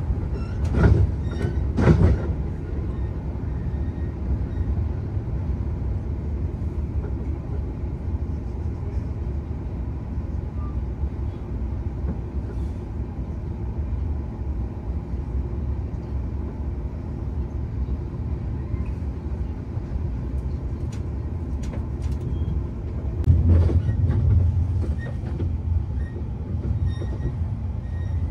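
Passenger train running at speed, heard from inside the carriage: a steady low rumble, with a few sharp knocks in the first couple of seconds and a briefly louder stretch a few seconds before the end.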